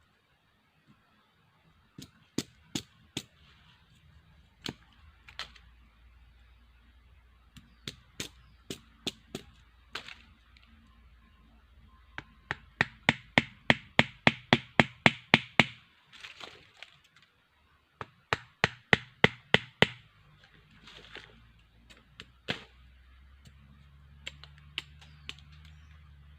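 Sharp knocks of a blade chopping wood, struck singly at first and then in quick steady runs of about four to five blows a second.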